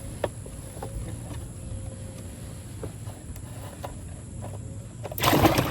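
Light knocks and clicks of handling on a plastic kayak, then about five seconds in a sudden loud splashing noise.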